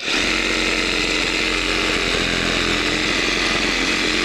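Cordless Skil reciprocating saw (SawZall) cutting through wood. It starts abruptly and runs loud and steady at full speed.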